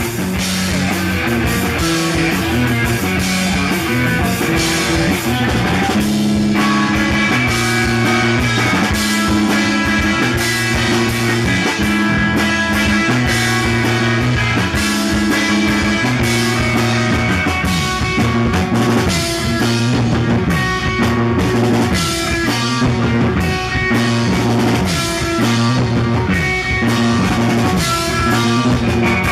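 Blues-rock band playing live: electric guitars, bass and drum kit.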